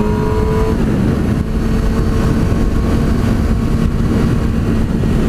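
2009 Yamaha R6's inline-four engine running at a steady pitch on the move, under heavy rushing wind noise. The engine note fades back into the wind about a second in.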